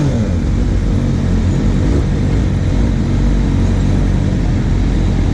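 Motorcycle engine running steadily under a heavy low rumble of road and wind noise.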